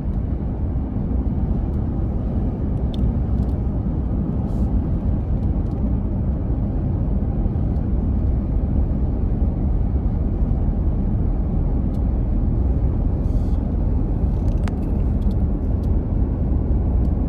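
Steady engine and road noise heard from inside a moving car's cabin, with a few faint clicks.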